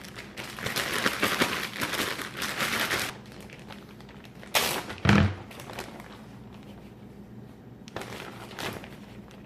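Plastic freezer bag crinkling as potato slices and a paper towel are shaken around inside it to dry them, for about three seconds, then two shorter rustles with a single thump about five seconds in.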